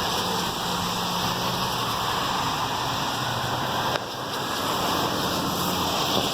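Fire engine running, a steady rushing roar with a low hum under it. There is a sudden brief dip about four seconds in.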